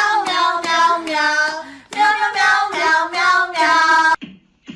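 A high voice singing a melody in held notes, child-like, which cuts off abruptly about four seconds in.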